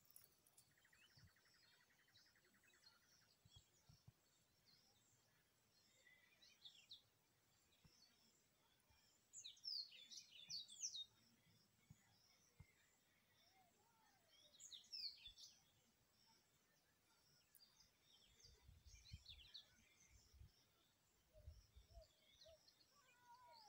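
Near silence: faint outdoor ambience with scattered distant bird chirps in short clusters, a brief buzzing trill near the start, and a few low thumps later on.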